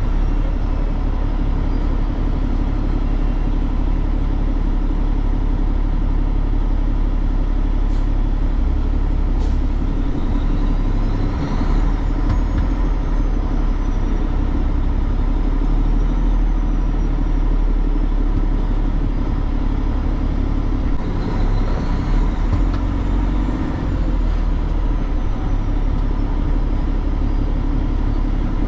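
Semi truck's diesel engine running with road noise, a steady low rumble, with a faint high whine that rises and falls a few times.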